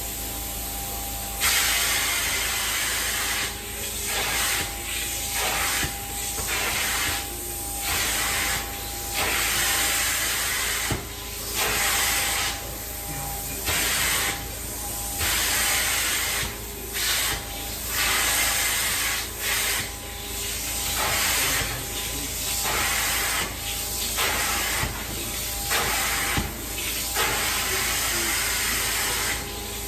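Hot-water extraction cleaning wand spraying and sucking on carpet in repeated hissing strokes, switching on and off about every second or two, over the steady hum of the cleaning machine.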